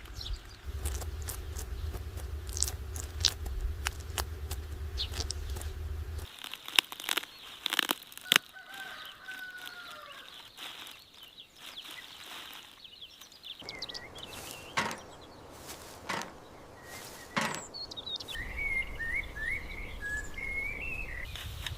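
Outdoor rural sound with scattered sharp clicks and knocks and short bird chirps, heard about eight seconds in and again near the end. The background hum changes abruptly a few times.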